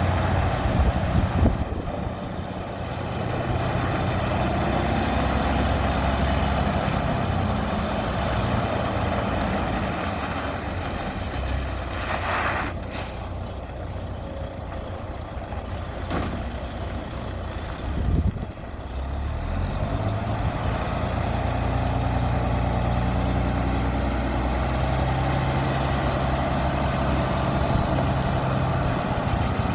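Diesel engine of a 2004 Volvo 630 semi truck running, its engine speed dropping through the middle and rising again later, with a short air hiss about a third of the way in.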